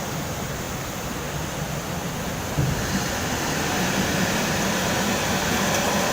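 Steady rushing noise of river water with a pickup truck's engine rumbling low beneath it, growing slightly louder from a few seconds in.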